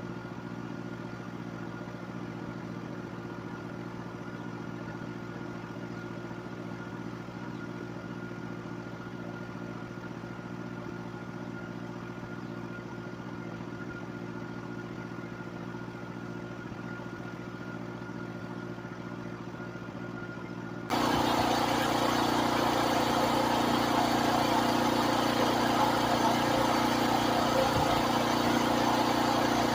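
A pressure washer's engine runs steadily. About two-thirds of the way through, the sound jumps suddenly louder as the hiss of the high-pressure water spray joins the engine.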